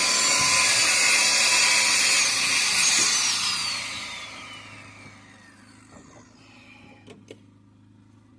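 A small high-speed motor running loud and hissy, then winding down with a falling whine over about three seconds; a few faint clicks near the end.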